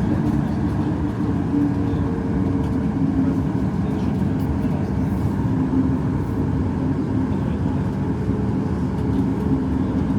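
Boeing 737 MAX 8 cabin noise: its CFM LEAP-1B engines and airflow make a steady rumble with a steady hum, heard from inside the passenger cabin.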